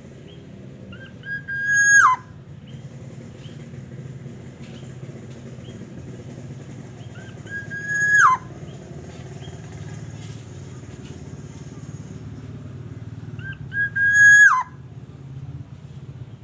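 Black-naped oriole whistling three times, about six seconds apart. Each call is a clear held note that drops sharply in pitch at the end. Softer short chirps sound between the calls, over a steady low hum.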